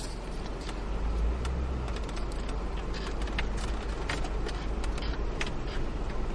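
Car driving on a snowy road: a steady low rumble of engine and tyres, with scattered sharp ticks over it.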